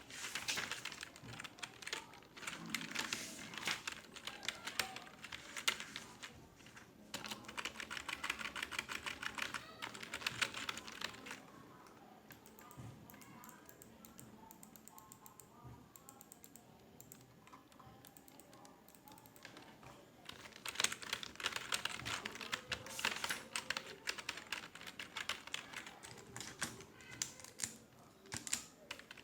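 Rapid typing on a computer keyboard, fast runs of key clicks that stop for about eight seconds in the middle and then start again.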